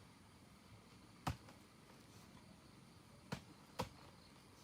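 Three sharp knocks: one about a second in, then two close together, half a second apart, near the end.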